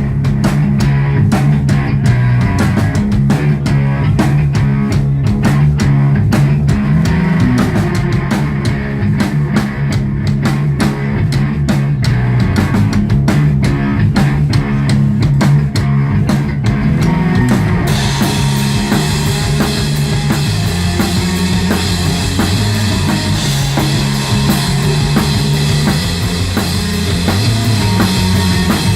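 Rock band playing live: guitar and bass riff over dense drum-kit strokes. About eighteen seconds in, cymbals come in and the sound turns brighter.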